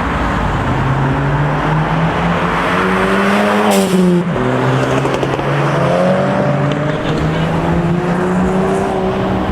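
A car engine accelerating hard, its note climbing in pitch for a few seconds, dropping sharply about four seconds in, then climbing again.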